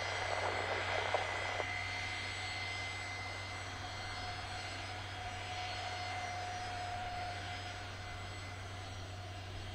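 Jet airliner's engines at takeoff power, a steady noise with a thin whine, slowly fading as the aircraft climbs away.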